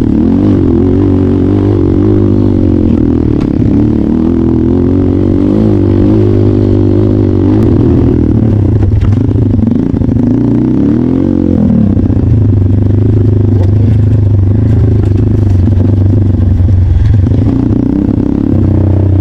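Trail motorcycle engine running under load, its revs rising and falling unevenly, dropping about eleven seconds in and picking up again.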